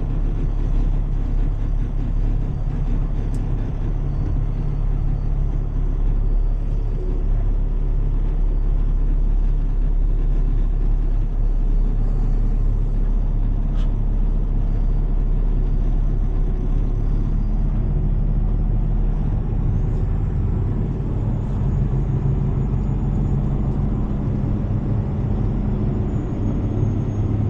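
Heavy tow truck's diesel engine running steadily while driving slowly, heard from inside the cab.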